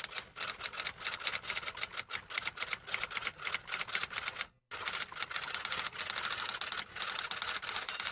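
Rapid, irregular clicking of keys being typed, several strokes a second, with a brief pause a little past halfway.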